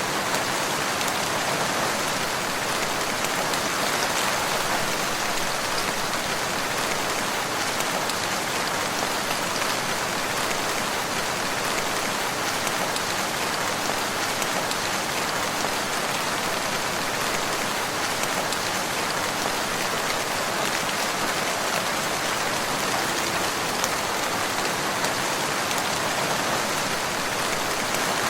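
Steady rain falling, an even hiss of many drops on surfaces that holds the same level throughout.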